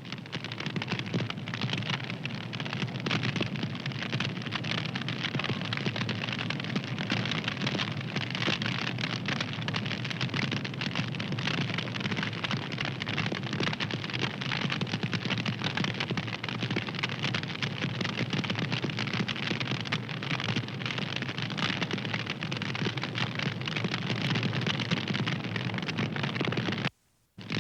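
Fire crackling: a dense stream of small pops and snaps over a steady hiss. It cuts out to silence for about half a second near the end.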